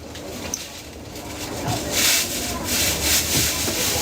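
Rough scraping strokes of a cooking utensil working food in a pan at a street-food stall, several strokes in the second half.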